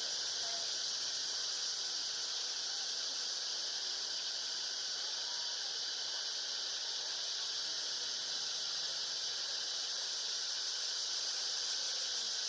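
Steady high-pitched droning of an insect chorus, unbroken.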